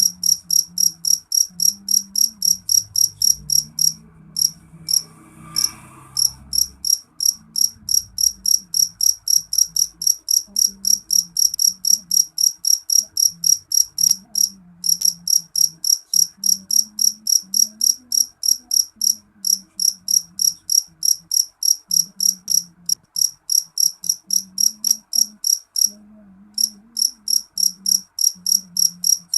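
A cricket chirping in a steady, even rhythm of high-pitched pulses, about three or four a second, breaking off briefly three times before carrying on.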